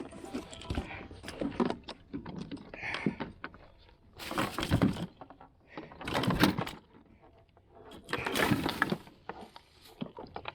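A large channel catfish thrashing in the kayak, slapping and banging against the hull and gear in three loud bursts about two seconds apart, with clattering and rattling in between.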